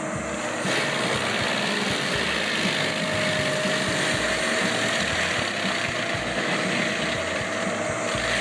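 PrimeTech PT600 forestry mulcher running steadily: engine and mulching-head noise, with a faint whine that slowly rises in pitch.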